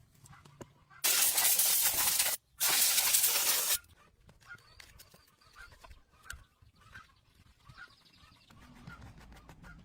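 Two loud hissing bursts of spray, each over a second long with a brief gap between them, followed by faint scattered clicks and taps.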